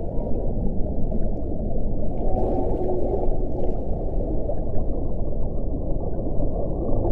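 Wind blowing steadily with a deep, dense rush. Faint moaning tones rise over it about two and a half seconds in, along with a brief higher hiss.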